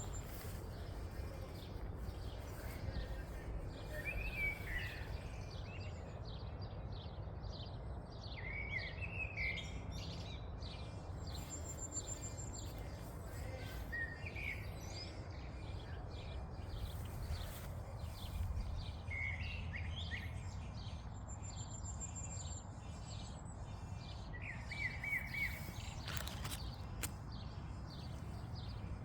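Outdoor nature ambience: a bird repeats a short call phrase about every five seconds, over a steady low rumble and faint rapid ticking.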